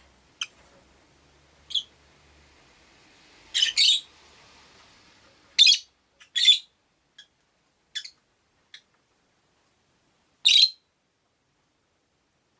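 Rosy-faced lovebirds giving short, sharp, shrill chirps and calls, about ten scattered ones with gaps between; the loudest are a quick double call a few seconds in and single calls around the middle and near the end.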